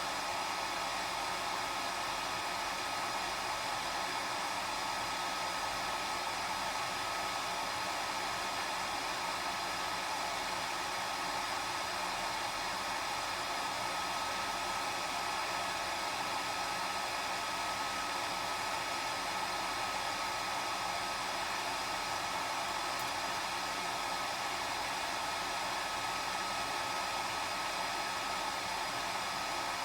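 Hair dryer running steadily: an even rushing airflow with a steady whine from its motor and fan.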